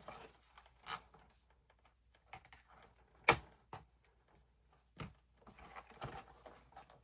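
Cardboard doll box and folded paper poster being handled: scattered light taps and crinkles, with one sharp snap near the middle.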